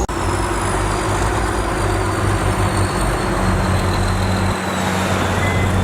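Heavy diesel engine of earthmoving machinery running steadily, with a faint high whine that slowly falls in pitch.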